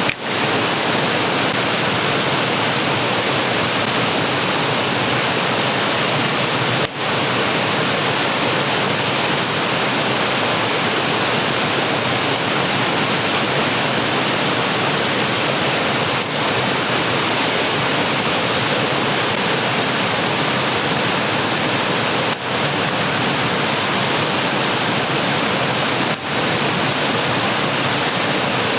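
Steady rushing water noise that keeps on unchanged across several short cuts.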